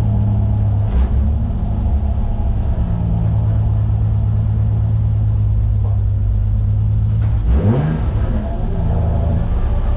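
BMW E30's M20B25 straight-six engine running at a steady, fairly low engine speed, with a quick rise in revs about seven and a half seconds in before it settles again.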